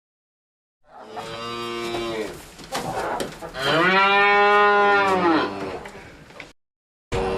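Cow mooing twice: a first call, then a longer, louder moo that rises and falls in pitch and cuts off abruptly.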